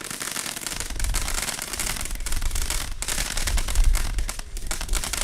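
Consumer firework cakes firing in rapid succession: dense crackling and popping throughout, with deep booms joining in from about a second in.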